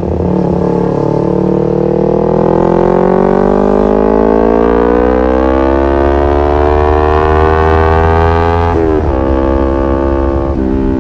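Kawasaki Ninja 250Fi parallel-twin engine through an R9 H2 SS aftermarket racing exhaust, pulling hard in one gear with its note rising steadily for about eight seconds. The pitch then drops sharply at an upshift and settles lower near the end.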